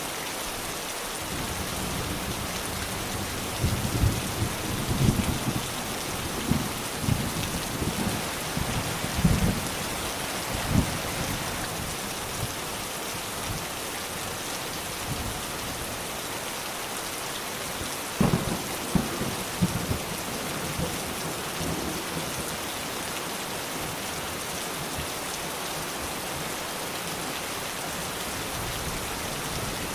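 Steady rain falling, with thunder rumbling and crackling twice: from about four to eleven seconds in, and again a little past the middle.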